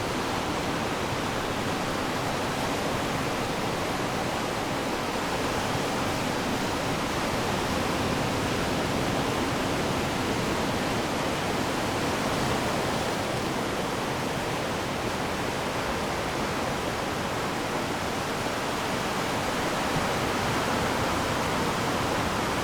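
Ocean surf washing on the shore as a steady, even rush of water, with no single wave standing out.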